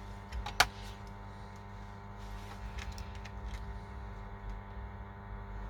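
Steady electrical hum of bench equipment, with one sharp click about half a second in and a few faint small clicks and ticks a couple of seconds later, typical of small tools and parts being handled.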